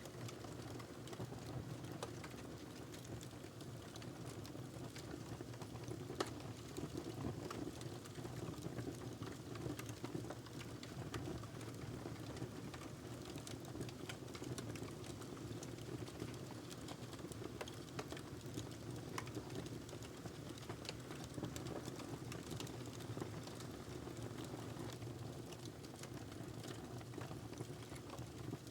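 Wood fire in a fireplace burning, with a steady low rush of flames and frequent small crackles and pops, one sharper pop about six seconds in.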